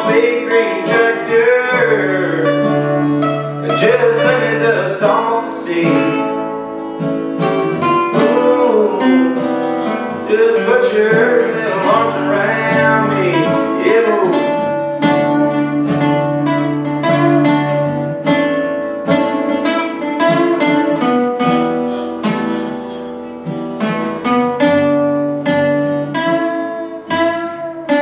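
Acoustic guitar strummed and picked with a voice singing over it for about the first half, then the guitar playing on alone toward the end of the song.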